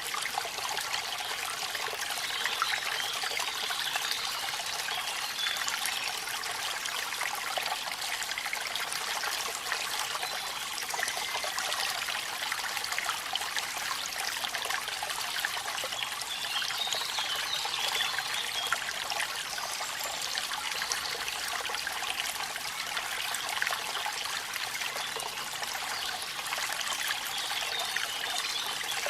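Steady splashing and trickling water with many small drop-like ticks, falling water at a waterfall in the rain. The sound is even throughout, with little deep rumble.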